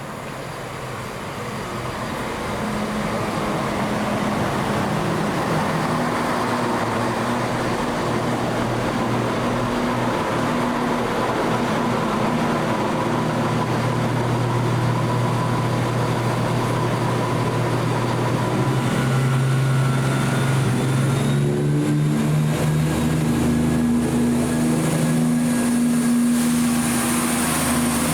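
A train running through the station, its low engine or traction drone growing louder over the first few seconds and then holding steady. The pitch of the drone shifts about two thirds of the way through, as a high whine rises above it.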